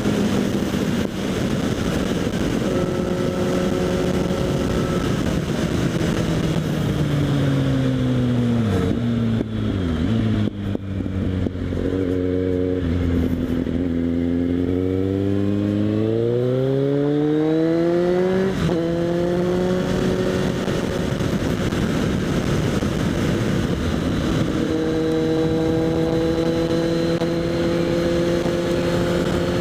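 Kawasaki Z800 inline-four running through a LeoVince SBK aftermarket exhaust under way. The engine note holds steady, falls as the bike slows, sits low for a couple of seconds, then climbs as it accelerates. About eighteen seconds in it drops sharply at a gear change and settles into a steady cruise.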